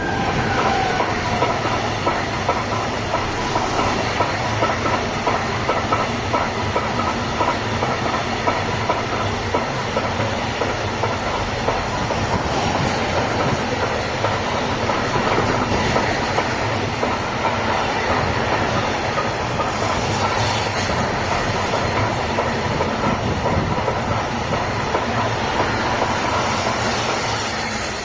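Train passing close by on the track: a steady, loud rush of wheels on rails with clickety-clack over the rail joints. A falling tone sounds in the first second.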